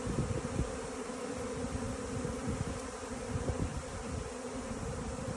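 Honeybee swarm buzzing steadily, thousands of bees in flight around a stack of empty hive boxes as the swarm settles in to move in. Irregular low thumps from bees striking the microphone or wind ride under the hum.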